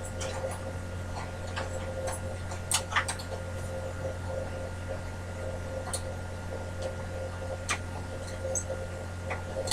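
Scattered small clicks and taps of metal tools and parts being handled, over a steady low hum.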